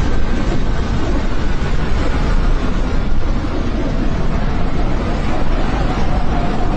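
Airplane engines running loud and steady, with a whine that rises in pitch near the end.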